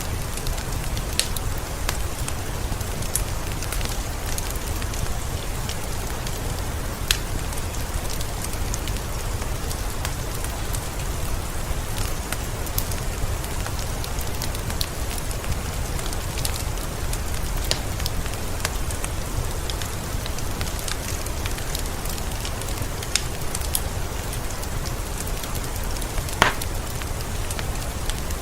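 Heavy rain falling steadily, a dense hiss with many sharp drips and drops of water landing close by.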